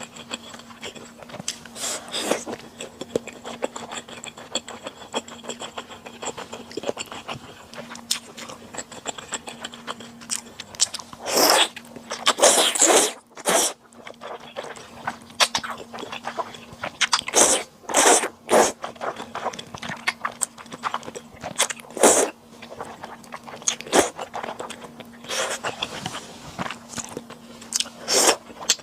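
Close-miked eating sounds: chewing and biting into sundae and thick, chewy Chinese glass noodles, made of sporadic short mouth sounds with denser, louder bursts, the loudest about halfway through.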